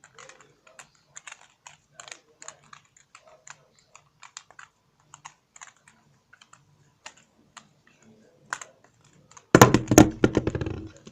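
Irregular light clicks and taps, a few a second, then a loud burst of close rustling and clattering about nine and a half seconds in, lasting over a second: handling noise on the microphone.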